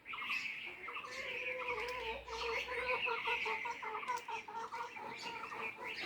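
Chickens clucking in a quick run of short repeated notes, with small birds chirping steadily behind them.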